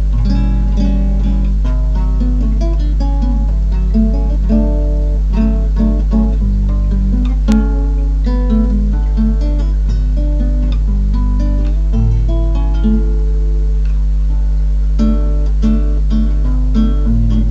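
Solo acoustic guitar playing a fingerpicked piece, a steady stream of plucked notes and chords over a constant low hum in the recording. A sharp click sounds about halfway through.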